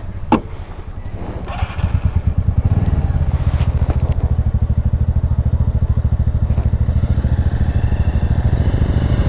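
Single-cylinder motorbike or scooter engine running, a rapid even pulsing that grows louder and steadier about two seconds in. A short sharp sound just after the start.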